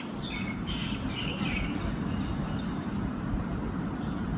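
Short bird chirps during the first second and a half, then a thin high whistle a little past the middle, over a steady low rumble of distant traffic.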